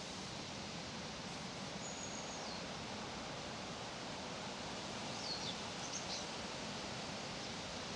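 Outdoor park ambience: steady even background noise with a bird's thin high whistle that holds, then drops in pitch, about two seconds in, and a few short high chirps around five to six seconds in.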